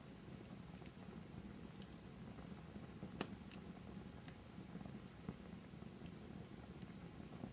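Wood fire in a fireplace crackling, with scattered small pops and one sharper pop about three seconds in, over a low steady hiss of the burning logs.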